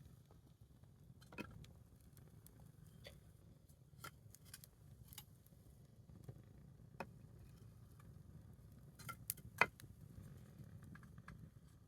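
Small wood fire crackling softly, with scattered sharp pops of burning wood, the loudest about nine and a half seconds in.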